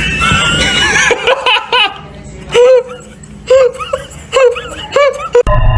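Laughter: a string of short, high-pitched cries that rise and fall, about one a second. Music cuts in abruptly near the end.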